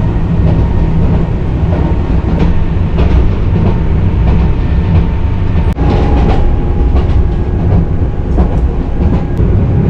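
Electric train running on the rails: a heavy, continuous rumble with scattered clicks from the wheels over the track. A steady whine joins about six seconds in.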